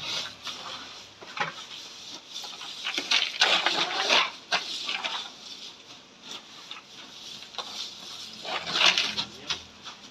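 Ice crunching and clattering in irregular bursts of grinding and clicking, loudest about three to five seconds in and again near nine seconds.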